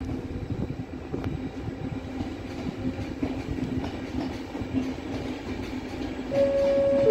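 Regional passenger train rolling along the station track, a steady rumble and hum with light clicking from the wheels. Near the end a loud steady tone starts, the loudest sound here.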